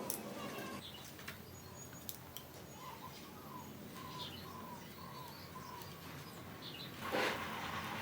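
A bird calling in a series of about six short, slightly falling notes in the middle, then a brief louder burst of noise about seven seconds in.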